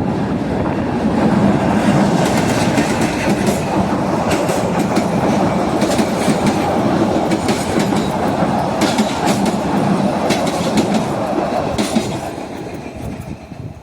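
A train passing close by, its wheels clacking rhythmically over the rail joints with a steady rumble, fading away about twelve seconds in.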